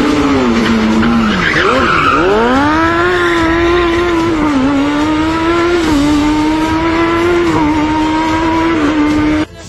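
Fiat 126 race car's engine driven hard: its pitch sags, then about two seconds in it revs up steeply and holds a high, nearly steady note with a few brief dips, before cutting off abruptly near the end. A short tyre squeal comes just before the rev-up.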